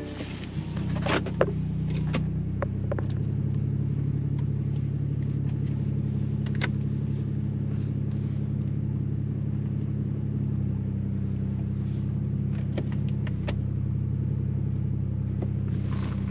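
Tuned BMW 440i's B58 turbocharged 3.0-litre inline-six, fitted with a catless downpipe and a Stage 2 tune, cruising at a steady speed: an even, low engine drone, with a few short clicks over it.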